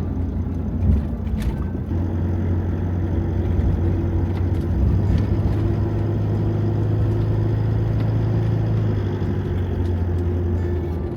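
Van engine running with a steady low drone.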